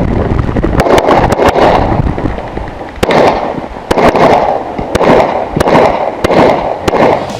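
Pistol gunfire from a .40 S&W competition pistol: a rapid series of sharp shots, many in quick pairs, in short strings separated by brief pauses, each crack followed by a short echo.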